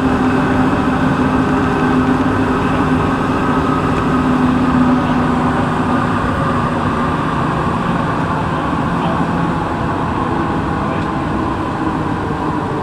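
Santiago Metro NS-16 train running between stations, heard from inside the car: a steady rolling rumble with a hum from the traction equipment whose tones shift around the middle. The sound eases slightly near the end.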